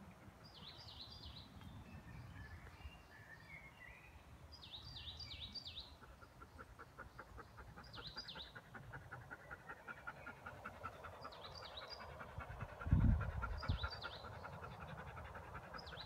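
Woodland birdsong: short, high chirping phrases repeat every two to three seconds. From about six seconds in, a fast, even ticking runs underneath. A low thump, with a smaller one just after, comes about three seconds before the end and is the loudest sound.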